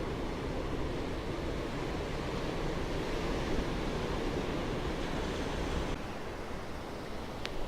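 Ocean surf washing ashore as a steady rush, with some wind on the microphone; it eases a little about six seconds in. A brief thin high chirp sounds near the end.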